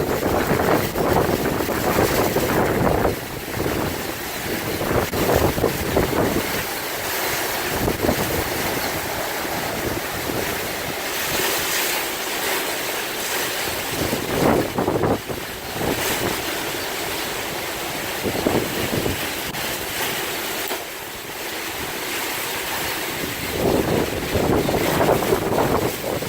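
Hurricane winds of about 100 mph rushing and gusting, buffeting the microphone with irregular blasts.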